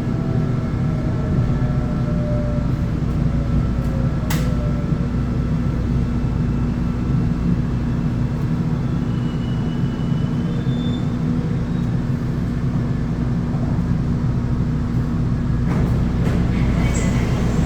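Electric commuter train running on the rails, heard from inside the car: a steady low rumble with a constant hum. A motor whine falls in pitch over the first few seconds, there is a sharp click about four seconds in, and short high squeaks come near the end.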